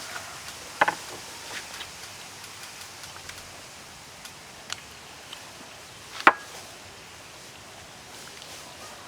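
A few sharp, isolated wooden knocks, like cooking work on wood, over a steady low hiss; the loudest comes about six seconds in.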